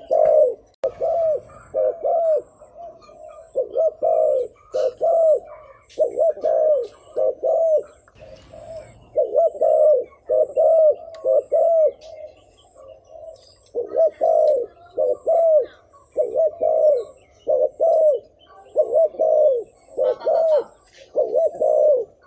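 Spotted dove giving rapid 'gù' coos: short arched coos in quick clusters of two to four, repeated over and over with brief pauses. This is the excited cooing used to lure in wild doves.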